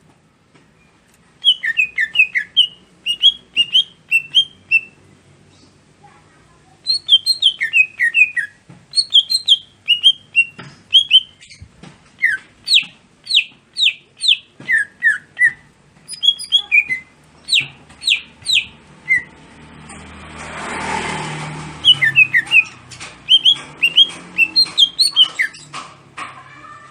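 Cucak hijau (green leafbird) singing: bursts of quick, sharp chirping notes, with short gaps between phrases. A rushing hiss swells and fades in the middle of the song.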